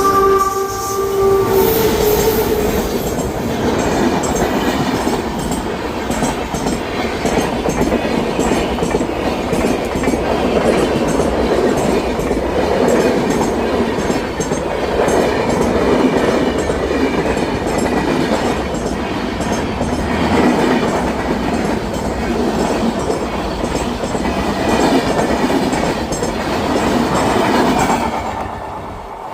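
A passenger train's horn sounds a chord and cuts off about a second and a half in. Then the train runs past with a steady rumble and a repeated clickety-clack as its wheels strike the joints between rail lengths, easing off near the end.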